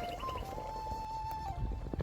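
Background music: a slow flute melody of long held notes that step up and down, over a low rumble.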